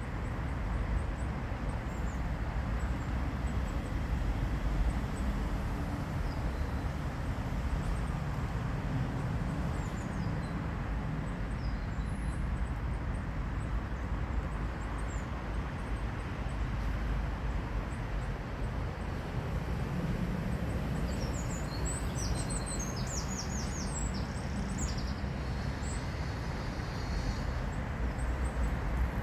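Steady low outdoor rumble with small birds chirping now and then, and a run of quick repeated chirps about two-thirds of the way through.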